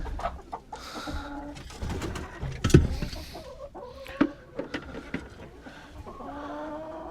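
Hens in the coop making low, cooing murmured calls, with a few sharp clicks and knocks in between.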